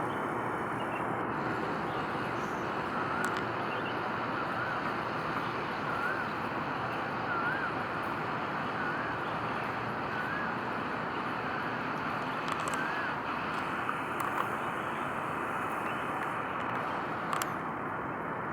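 Steady outdoor background noise, with a string of short wavering chirps about once a second for around ten seconds.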